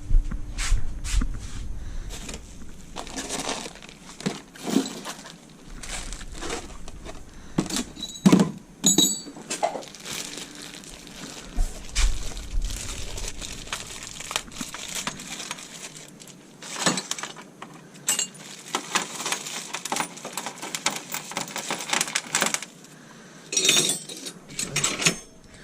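Loose metal hardware (bolts, nuts and washers from the motor kit) clinking and clattering as it is handled and sorted by hand, with stretches of rustling in between.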